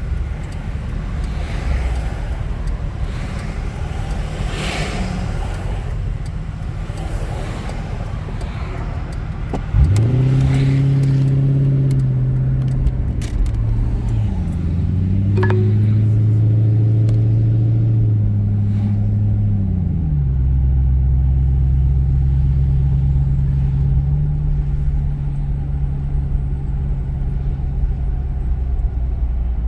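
1996 Mercury Grand Marquis 4.6-litre V8 running through a straight-piped single exhaust with no resonator and the rear catalytic converter deleted. It starts as a low rumble. About ten seconds in it suddenly gets louder into a strong droning note whose pitch steps up and down a few times before settling into a steady, deeper drone.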